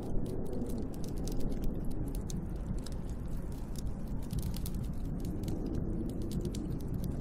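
Snowstorm wind blowing against a cabin, a steady low rumble with a faint howl that wavers in pitch, overlaid by a constant scatter of light ticks and crackles.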